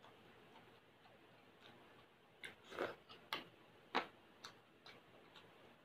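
A person chewing a mouthful of sautéed papaya with sardines. It is faint at first, then from about halfway through come a run of irregular wet mouth clicks and smacks.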